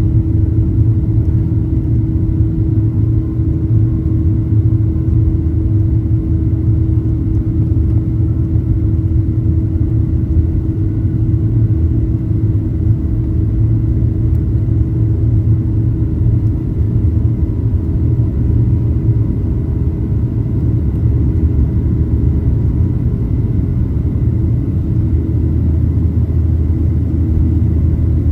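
Boeing 737-800 cabin noise at a window seat: a steady, loud low rumble from the CFM56-7B jet engines and airflow, with a constant hum running through it.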